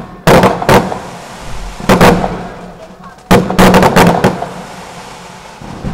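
Fireworks bursting: two bangs in the first second, another at about two seconds, then a quick run of cracks between about three and four and a half seconds, each dying away in a rumbling echo.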